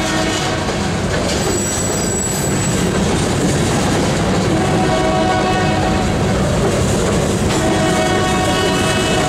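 Freight train's covered hopper cars rolling past close by, a steady rumble of steel wheels on rail, with a brief high wheel squeal about two seconds in. A locomotive horn sounds in two long blasts in the second half.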